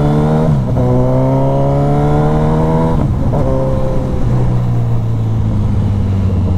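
Suzuki GSX-S1000's inline-four engine heard from the rider's seat, accelerating through the gears: its note climbs, drops with an upshift about half a second in and again about three seconds in, then settles to a steady cruise.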